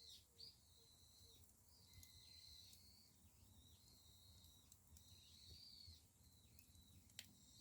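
Faint sound of bamboo firewood burning in an ondol firebox: a low rumble with a few sharp pops, and a thin high whistling that comes and goes.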